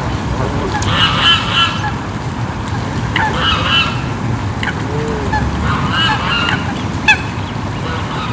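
Swans honking: three short bouts of calls, about a second, three seconds and six seconds in, over a steady low rumble of background noise, with a sharp click about seven seconds in.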